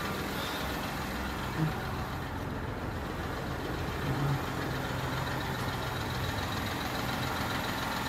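Jaguar S-Type's engine idling steadily.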